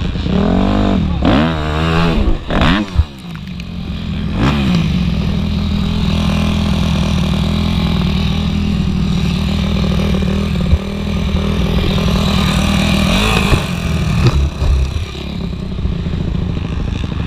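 Motocross bike engine revving up and down several times in quick succession, then holding a steady high drone for several seconds before rising and falling again, with a few clattering knocks.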